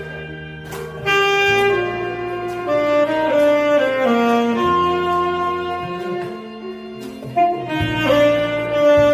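Saxophone playing a slow song melody, one sustained note after another, over accompaniment with a low bass line.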